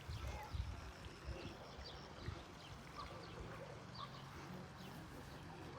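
Birds chirping: short, scattered calls, several each second, over a faint low rumble.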